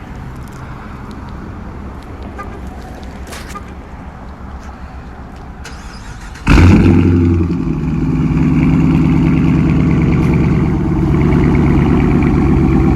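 2017 Dodge Charger Daytona's 5.7-litre Hemi V8 exhaust, with the mid-mufflers deleted and the resonators kept. It runs at a moderate level at first; about six and a half seconds in it jumps suddenly to a loud burst, then settles into a loud, steady run.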